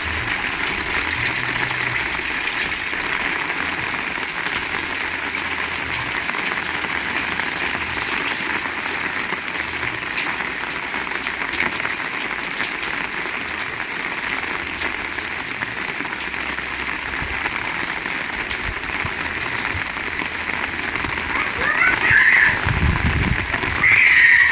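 Heavy rain pouring steadily, an even hiss of rain on surfaces. Near the end there are two short, higher-pitched sounds and a brief low rumble.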